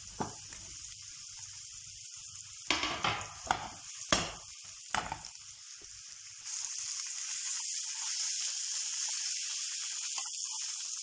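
Sliced mushrooms sizzling in hot oil in a frying pan, with several sharp knocks and scrapes in the first five seconds as the last slices are pushed in from a wooden board. About six and a half seconds in the sizzle grows louder and steadier as a wooden spatula stirs them.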